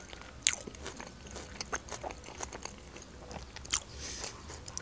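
A person chewing a mouthful of Caesar salad: quiet, wet crunching with a couple of sharper crunches, about half a second in and near the end.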